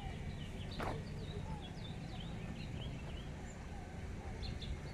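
Outdoor street ambience: small birds chirping in short, quick notes over a steady low rumble, with one sharp click about a second in.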